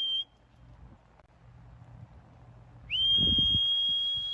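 Electronic pigeon-race clock's buzzer sounding a steady high beep as a returning bird is clocked in at the loft. A short beep stops just after the start; a longer one starts about three seconds in with a quick upward slide, over a few low thumps.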